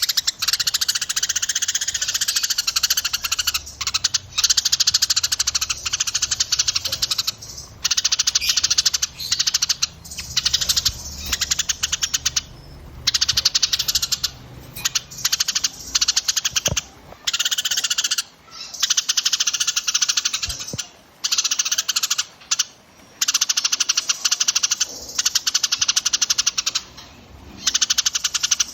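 Small songbirds singing dense, very fast buzzy trills in phrases of one to three seconds, broken by short pauses.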